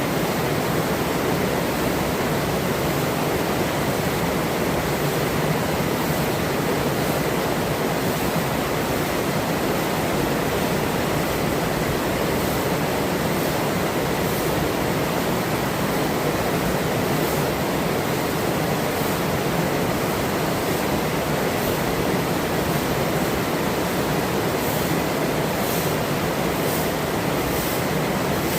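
Forest river flowing steadily: an even, unbroken rush of running water.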